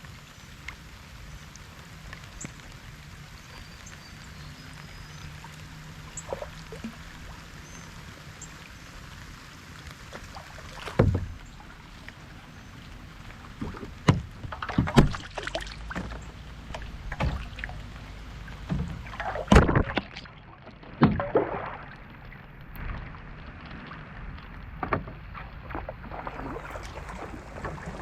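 Kayak paddling in light rain: a steady soft hiss of rain at first, then from about ten seconds in, irregular splashes and sharp knocks of the paddle in the water and against the hull.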